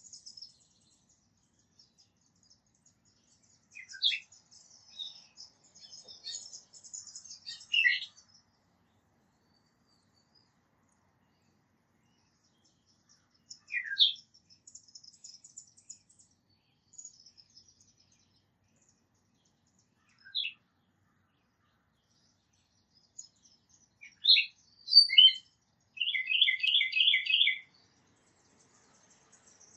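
Small songbirds chirping and calling in scattered bursts: high, thin chips and short calls that sweep downward, with quiet gaps between them. Near the end comes a quick trill of about ten repeated notes.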